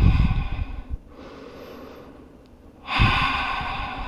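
A woman breathing deeply and audibly. One loud breath fades over about a second, a quieter stretch of breath follows, and a second loud breath starts about three seconds in.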